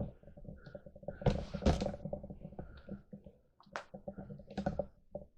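Close handling noise: continuous rubbing and fine crackling, with a few sharper knocks about a second and a half in and again near the end.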